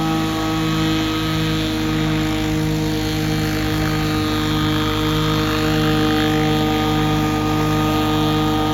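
Zenoah 80cc two-stroke petrol engine of a size-1100 scale Bell 206 RC helicopter running steadily, with a slow throb about twice a second.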